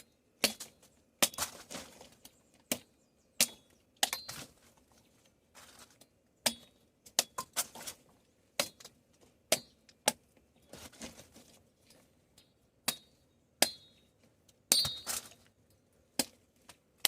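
Cassava stems being cut into planting-stake pieces with a metal blade: a series of irregular sharp chops, some with a short metallic ring.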